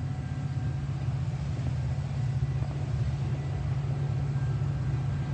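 Low, steady rumble of an approaching diesel train, growing slightly louder.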